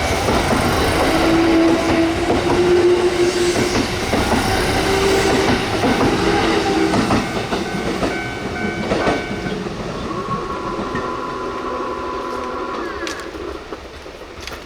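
Kintetsu Nara Line electric train running past, wheels clacking over the rail joints, with a whining tone that shifts in pitch. It fades away toward the end.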